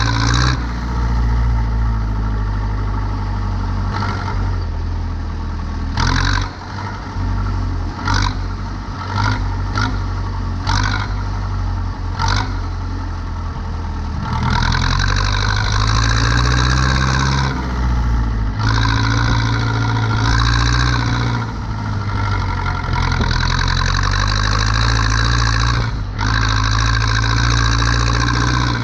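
Zetor 7245 tractor's diesel engine running steadily, with short knocks and clatter in the first half. From about halfway it runs louder and fuller, its pitch rising and falling slightly with the revs.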